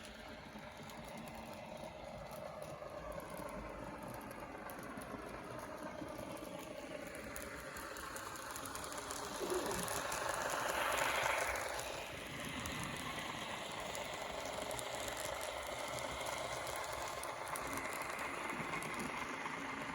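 N gauge model trains running: a small electric motor whining with its pitch sliding up and down, and wheels clicking and rattling over the track, loudest about ten seconds in as a train passes close.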